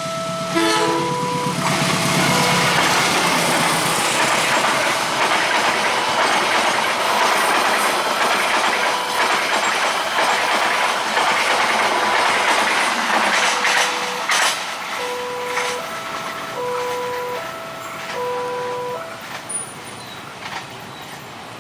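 A train passes over a railway level crossing at speed, a loud steady rumble of wheels on rails for about twelve seconds. The crossing's electronic warning alarm plays its repeating multi-note chime before the train drowns it out, sounds again once the train has passed, and stops near the end.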